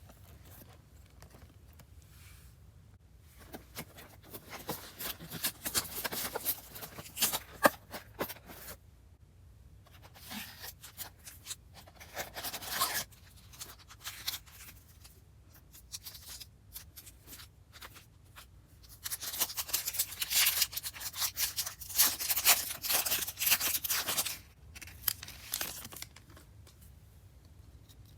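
Plastic wrapping on a trading-card box being torn open and crinkled by hand, in several bursts of crackling with short pauses between them.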